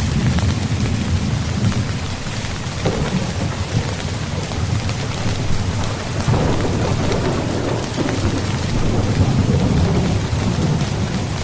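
Rain falling steadily on a tent, with a deep rumble of thunder swelling about six seconds in and fading a few seconds later.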